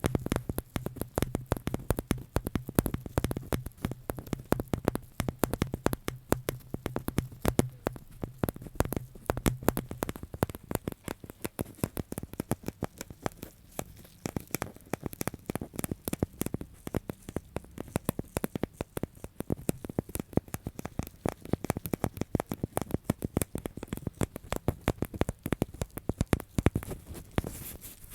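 Close-miked crackling and tapping from objects being handled, a dense irregular run of sharp clicks, several each second, with a low steady hum under it for the first ten seconds or so.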